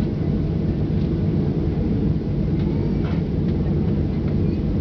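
Boeing 737-800's CFM56 jet engines and airframe giving a steady, loud low rumble.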